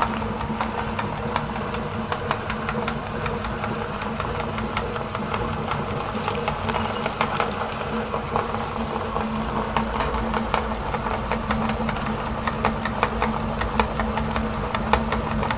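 Electric meat grinder running steadily under load, its motor humming while irregular crackling clicks come from chocolate bars being crushed in the auger.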